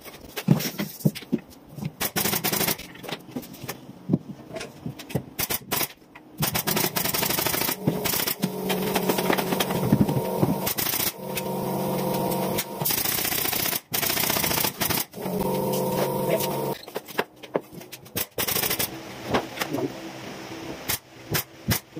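Carpentry work on a ceiling: many sharp clicks and bangs, like a nail gun firing, with a steady humming machine running through the middle of the stretch.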